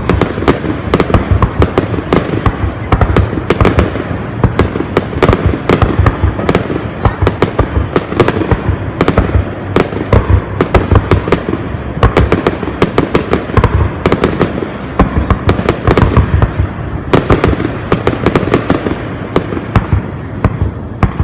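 Aerial fireworks bursting in rapid, dense succession, many sharp bangs and crackles overlapping over a continuous low rumble.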